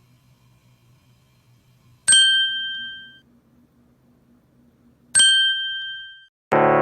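Two identical bell-like dings about three seconds apart, each a sharp strike that rings and fades over about a second.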